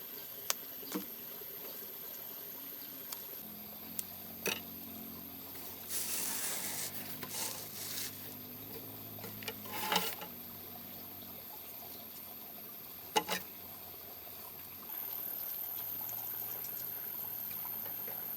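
Water trickling and pouring, with scattered light knocks and clatters and a louder splashing stretch about six seconds in.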